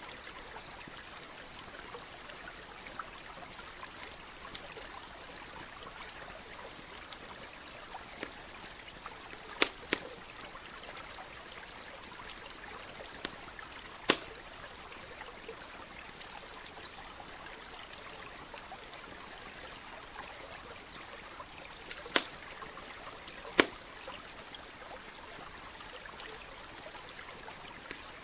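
Campfire crackling, scattered small ticks with four louder sharp pops, over the steady trickle of a stream.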